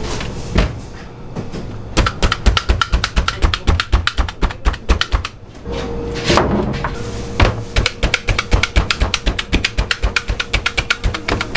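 Knife chopping rapidly on a cutting board, about five or six quick strokes a second, in two long runs with a short pause in the middle.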